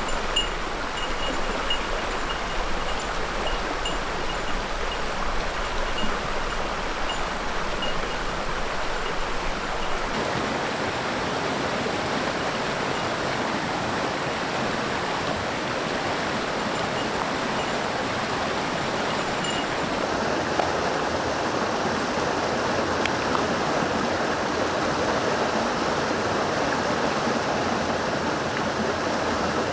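Mountain stream water rushing steadily. The sound of the water changes abruptly twice, about a third and two thirds of the way through.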